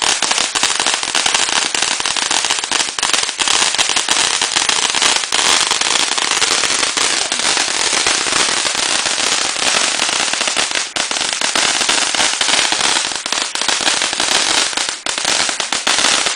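Ground fountain firework burning with a dense, continuous crackle of many small pops over a spraying hiss, cutting off abruptly right at the end.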